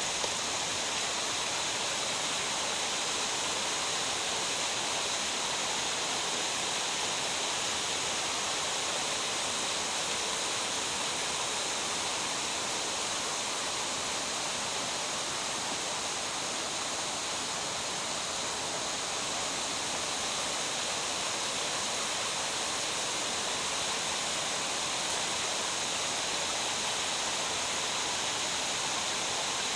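Steady rushing of water in a mountain stream.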